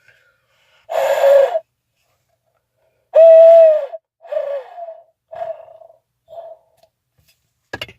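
Handheld owl locator call ('the hooter') blown in the barred-owl 'who cooks for you' rhythm: a breathy first hoot, a long loud hoot, then three short hoots that grow fainter as the caller runs out of breath.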